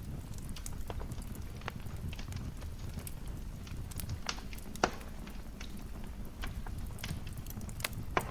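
Wood fire in a fireplace crackling: a steady low rumble of the flames with irregular sharp crackles, and two louder pops, one about halfway through and one near the end.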